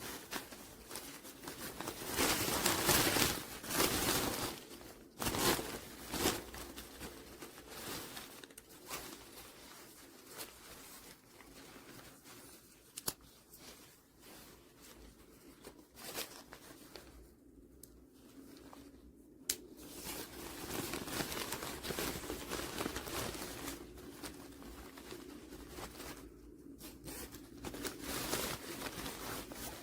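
Irregular rustling and crinkling handling noises, with a few sharp clicks.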